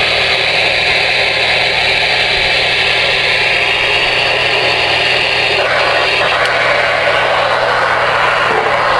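Steady static hiss from a CB radio receiver's speaker, with a low steady hum underneath.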